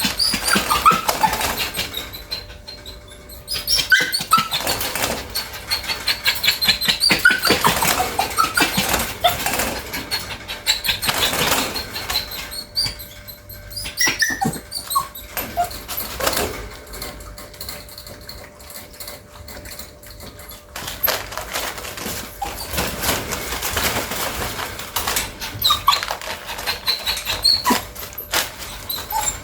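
Bichon whining in short, high gliding whimpers, over a busy run of rapid clicks and scratching, in uneven bouts with quieter gaps. Whining like this is among the signs of a dog that urgently needs to relieve itself.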